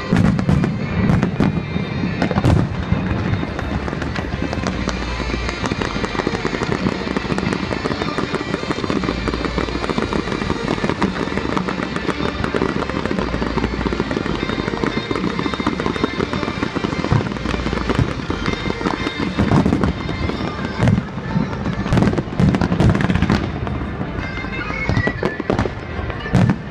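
Fireworks display: a dense, continuous crackle from fountains and shells, with sharp bangs now and then, several of them close together in the second half, over music.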